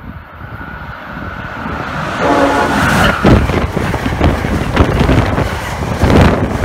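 Amtrak passenger train approaching and passing a platform at speed. A rising rush of rail noise builds for about two seconds, a brief pitched tone sounds as the locomotive arrives, and then comes loud wheel-and-rail clatter with a blast of wind buffeting the microphone as the coaches go by.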